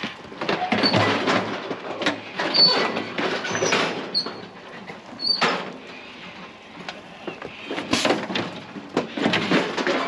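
Irregular rattling and clattering of steel sheep-yard gates and panels, with a few short metallic squeaks, as ewes are worked through the yards.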